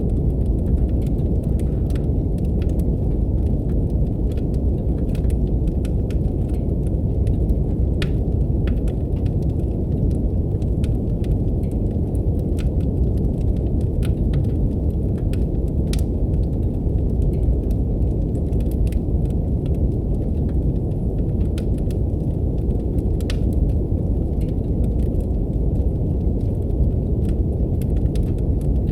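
Steady brown noise, a deep even rush, mixed with the irregular snaps and crackles of a wood fire burning in a fireplace.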